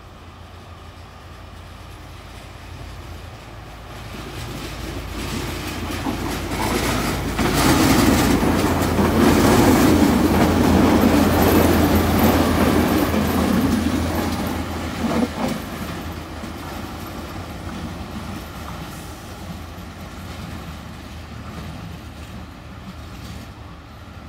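A train passing by. Its rumble builds from about four seconds in, is loudest in the middle with the wheels clattering over the rail joints, and then fades away.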